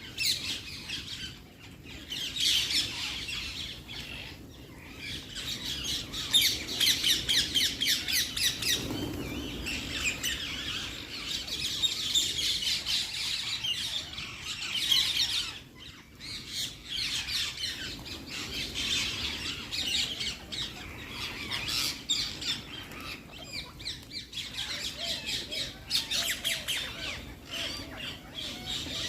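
Parrots squawking and chattering in a dense run of rapid, harsh, high calls, with only brief pauses.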